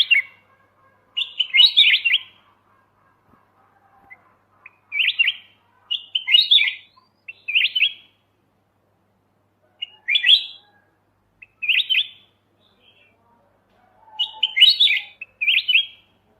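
Kutilang emas (white-eyed golden bulbul) singing short, chattering whistled phrases, about nine of them, each under a second, in ones and pairs a second or two apart.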